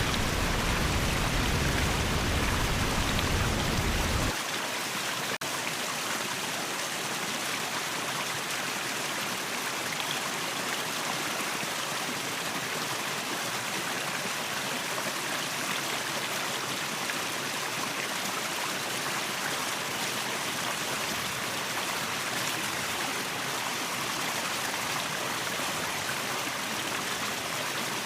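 Steady rush of flowing water at a waterfall. About four seconds in, the deep rumble drops away abruptly and the level falls, leaving a lighter, hissing stream sound.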